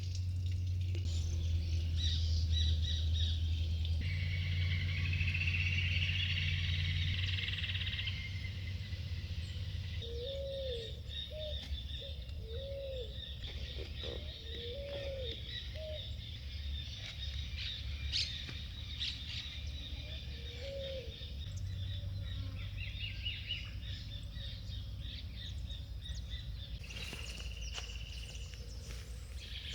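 Small birds chirping and trilling, with a lower, arched call repeated several times partway through, over a steady low rumble.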